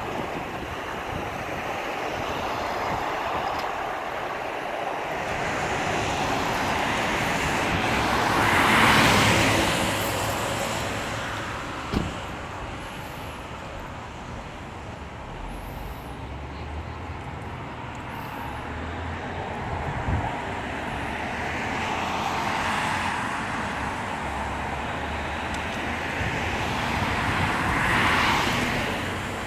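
Road traffic: cars passing one after another, each one swelling and fading, loudest about a third of the way in and again near the end. There is a single sharp tap about twelve seconds in.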